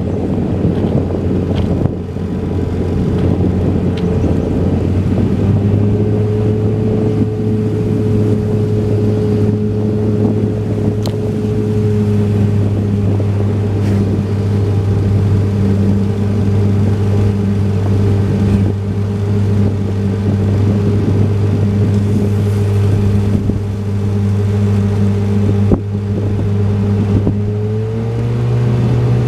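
Motorboat engine running at a steady speed, with wind buffeting the microphone. Near the end the engine speeds up and its pitch rises.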